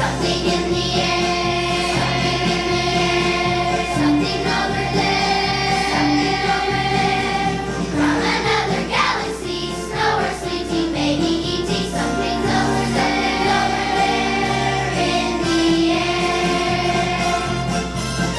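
Children's choir singing a song over instrumental accompaniment with a steady beat.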